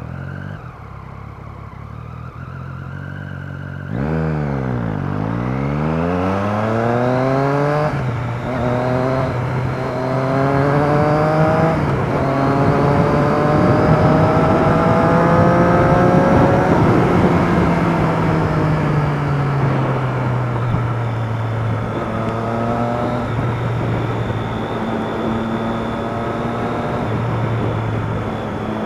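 Motorcycle engine pulling away and accelerating through the gears: its pitch rises and drops back at several upshifts in quick succession, then holds at speed and falls away as it eases off. Steady wind and road noise run under it.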